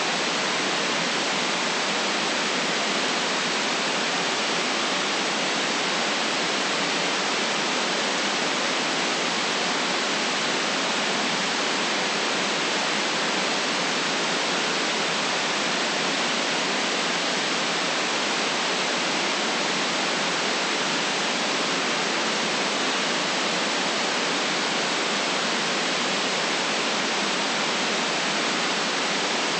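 Steady white noise: an even, unchanging hiss with no deep rumble and no events in it.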